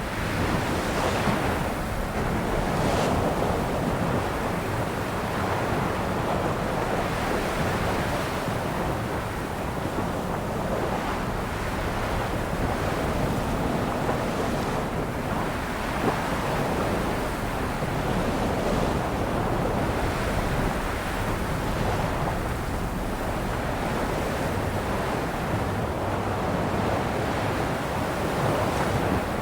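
Sea waves breaking and washing onto a shore, a steady continuous surf.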